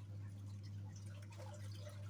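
Water dripping and lightly splashing in a twin-tub washing machine's wash tub as clothes are handled, with a steady low hum underneath.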